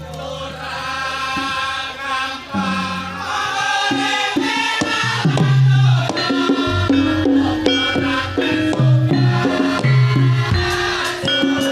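Javanese gamelan music accompanying a topeng and lengger dance: a singer's long held notes open it, and about five seconds in, struck pitched percussion and drum come in with a steady rhythm.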